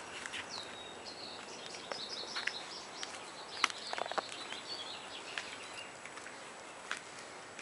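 Small birds chirping in a quick, high twittering series through the first half, over steady outdoor background noise, with scattered light clicks and taps; the sharpest click comes about three and a half seconds in.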